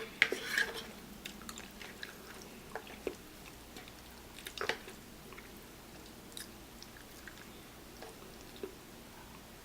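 Close-miked mouth sounds of a person eating spicy noodles: wet chewing and smacking, busiest in the first second, then scattered soft clicks every second or two.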